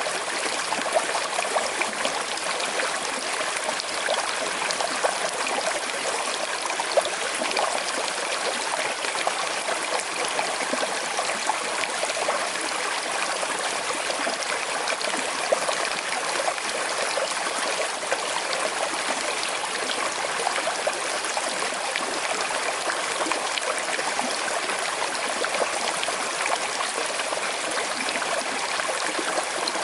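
Small river flowing steadily over stones with a slight current: a constant rushing babble dotted with small splashes and trickles.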